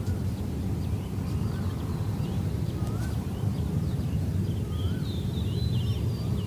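Steady low outdoor rumble of wind and distant traffic, with small birds chirping over it: a few short rising-and-falling calls, then a quick cluster of higher chirps near the end.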